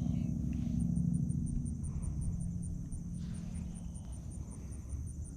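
Insects chirping in an even rhythm of about four pulses a second, over a low hum that is strongest in the first two seconds and then eases off.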